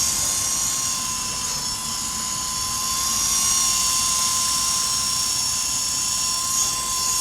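Radio-controlled model helicopter in flight: its motor and rotors give a steady, high whine.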